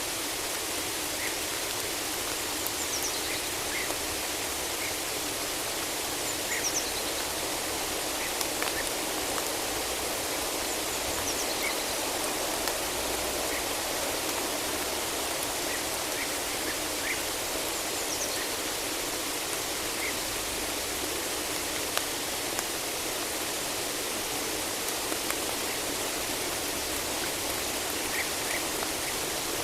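Steady rain falling in a forest, with short high bird chirps every few seconds.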